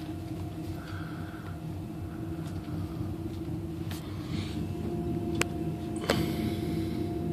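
ICE high-speed train running, heard from inside the passenger car: a steady low rumble with a constant hum, growing slightly louder. A few sharp clicks come through about four, five and a half and six seconds in.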